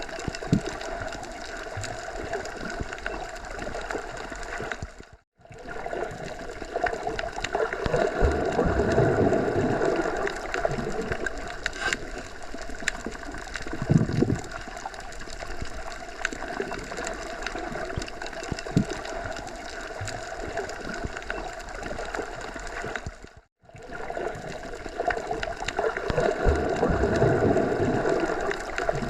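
Wind rushing through forest trees in gusts that swell and ease. The track cuts out completely for a moment twice, where the loop repeats.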